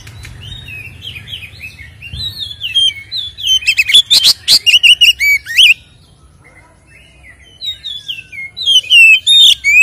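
Oriental magpie-robin (kacer) singing a fast, varied song of whistled chirps and trills. The song is loudest about halfway through, drops away for about two seconds, then picks up again near the end.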